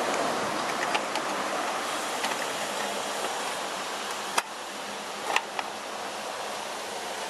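Steady hiss of background noise with a faint hum, broken by a few sharp clicks, about a second in, just past four seconds and just past five seconds.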